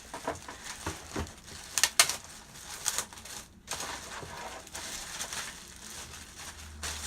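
Plastic wrapping crinkling and crackling as it is pulled off and handled, in irregular bursts, the loudest about two seconds in.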